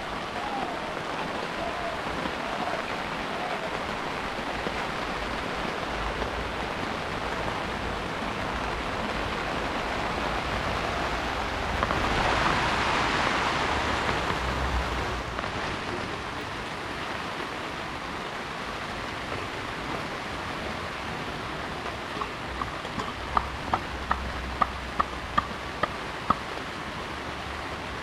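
Heavy rain falling steadily, swelling louder for a few seconds around the middle. Near the end a run of about eight sharp ticks sounds over the rain.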